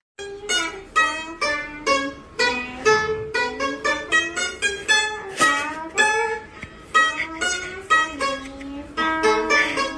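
A melody of plucked notes on a round-bodied Chinese lute, several notes bent in pitch, with quickly repeated notes near the end.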